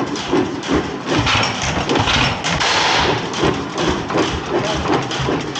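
15 hp Galloway single-cylinder hit-and-miss engine running, with a repeated knocking rhythm.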